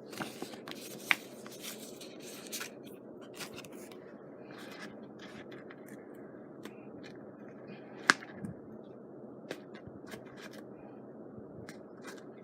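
Scattered small clicks and scrapes from hands working craft materials on a table, with two sharper ticks about a second in and about eight seconds in, over a steady low background hum.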